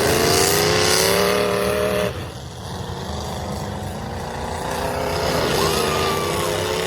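Demolition derby truck engines revving hard: one climbs in pitch for about two seconds and drops off suddenly, then an engine revs up again near the end.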